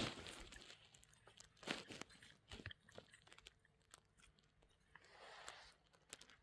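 Scattered crunching and rustling: a few sharp crunches in the first three seconds, then a softer rustle about five seconds in.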